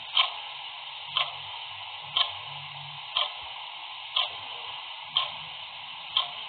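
Clock ticking evenly once a second, over a steady background hiss.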